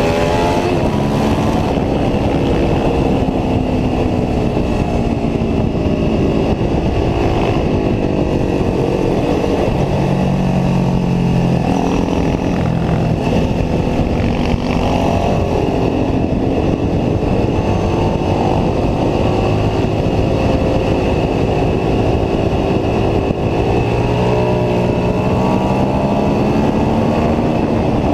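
Ducati 749S V-twin engine at speed on track, its note rising and falling as the rider accelerates, shifts and brakes, under a steady rush of wind noise.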